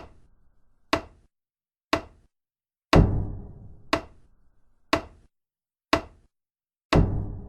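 Regular percussive knocks about once a second, in a four-beat pattern: every fourth hit is heavier, with a deep booming ring that dies away slowly, and the three between are short, dry ticks.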